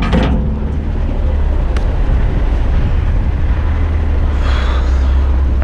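Heavy dump truck's diesel engine running steadily with a deep low rumble. There is a short hiss about four and a half seconds in.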